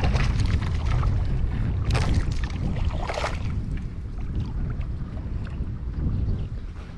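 Strong wind buffeting the microphone, a heavy uneven rumble that eases off toward the end, with two brief sharp noises about two and three seconds in.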